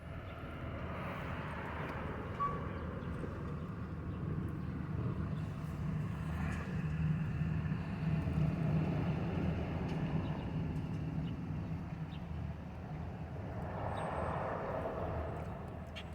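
Motor vehicles running nearby: a steady low engine hum that swells and fades several times as vehicles pass or move about.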